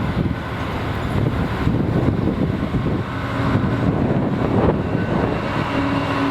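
A train passing with a steady rumble, and wind buffeting the microphone. A steady hum comes in partway through and grows stronger near the end.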